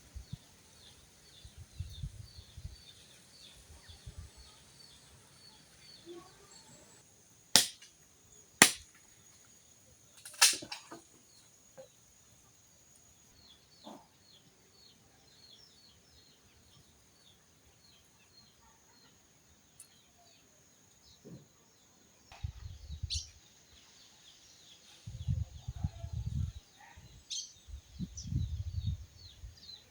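Three sharp cracks, two close together about seven and a half seconds in and a third two seconds later, over steady, faint, rhythmic chirping. Low muffled thumps come and go near the start and through the last several seconds.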